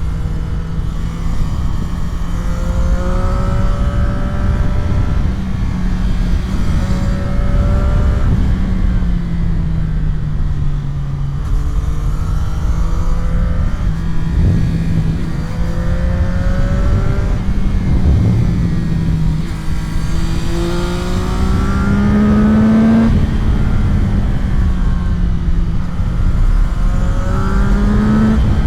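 CFMOTO 675SR-R's inline three-cylinder engine pulling hard, its pitch climbing and dropping back again and again as the rider accelerates and shifts through the gears on winding roads. Wind rushes over the microphone throughout.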